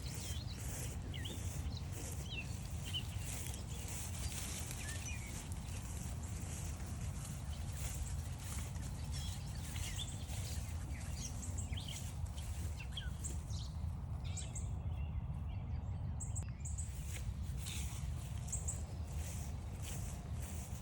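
Several songbirds chirping in short, scattered calls over a steady low rumble, with a regular crunch of footsteps about twice a second.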